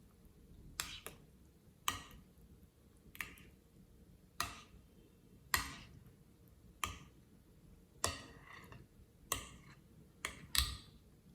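Slime making short, sticky pops and clicks as it is pressed and pulled, about ten of them at a steady pace of roughly one every second and a bit, two coming close together near the end.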